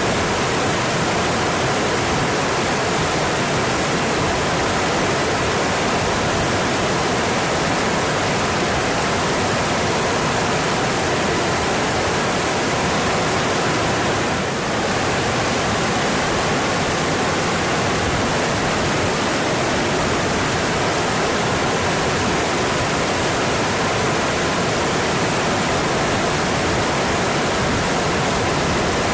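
Mountain stream flowing: a steady, even rush of water, with a brief slight dip in level about halfway through.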